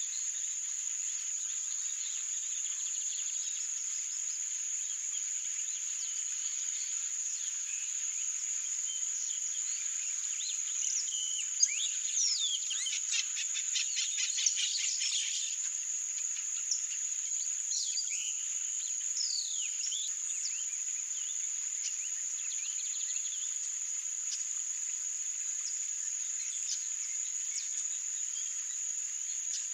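A steady, high-pitched insect trill runs throughout, from crickets or similar marsh insects. About eleven seconds in comes a burst of yellow-rumped marshbird calls: a fast run of repeated notes, then a few falling whistles over the next several seconds.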